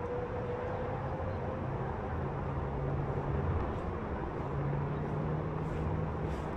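Steady rumble of city traffic and road noise, with a low hum that shifts in pitch and swells slightly around the middle.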